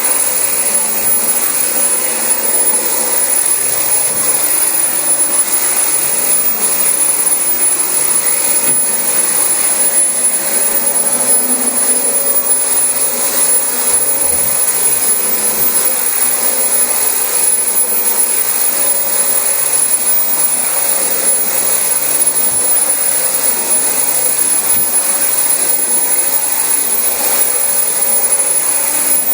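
Dyson DC25 bagless upright vacuum cleaner running steadily over thick carpet, a constant rush of air with a steady high whine from the motor.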